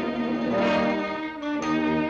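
Orchestral music, strings playing held notes, with a short break about one and a half seconds in.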